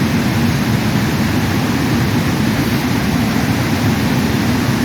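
Floodwater rushing through a dam, a steady, even rush of water with no breaks.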